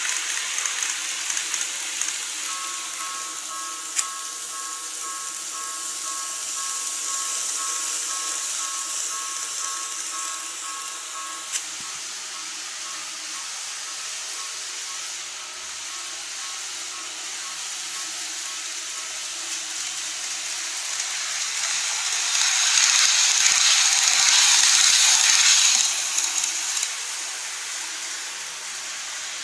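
Model train running on its track: a steady hissing whir of motor and wheels, with a thin high whine for several seconds in the first part and a louder rush, as of the train passing close, for about four seconds near the end. Two sharp clicks.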